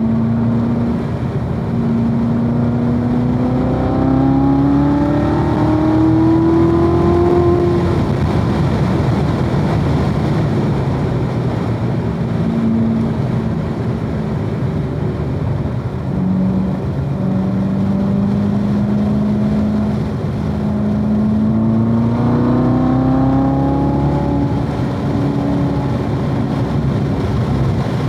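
2016 Corvette Z06's supercharged 6.2-litre V8 running hard on track: its pitch climbs steadily for several seconds under acceleration, drops back about eight seconds in, holds lower, then climbs again about twenty-one seconds in, over steady tyre and wind noise.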